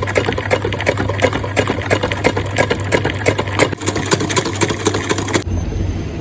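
Sewing machine stitching round the edge of a fabric heart on a card backing: a fast, even run of needle strokes over a steady motor hum, the stitching stopping about five and a half seconds in.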